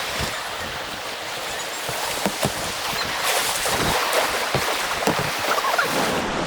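Steady rushing of white water on an artificial kayak course, with scattered small splashes.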